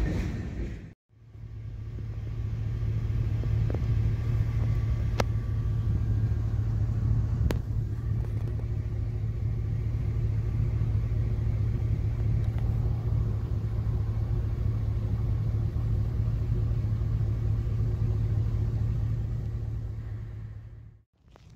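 Covered hopper cars of a BNSF grain train rolling slowly past, a steady low rumble with two sharp clicks a few seconds in. The rumble starts about a second in and fades out near the end.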